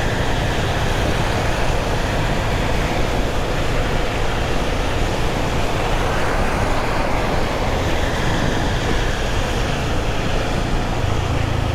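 Yamaha FZ25 motorcycle's single-cylinder engine running under way, its low engine note beneath a steady rush of wind and road noise.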